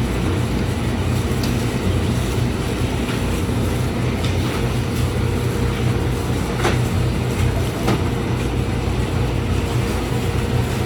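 Steady low rumble of road and engine noise inside a moving car, with a couple of faint ticks.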